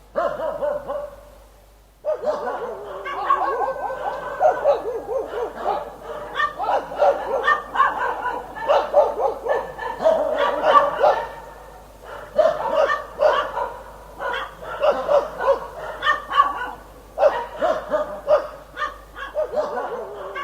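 Dogs barking and yipping in quick, overlapping barks, with a brief pause about a second and a half in.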